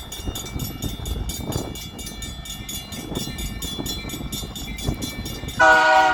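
Slow freight train led by EMD SD40-2 locomotives rolling past with a low rumble, while a bell rings rapidly. About five and a half seconds in, the locomotive's air horn sounds a loud chord, the loudest sound here.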